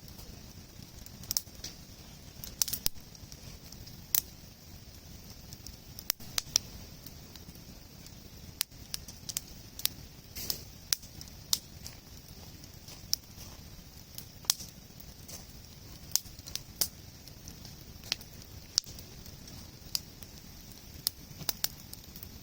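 Wood campfire crackling: irregular sharp snaps and pops of burning logs over a low steady rush.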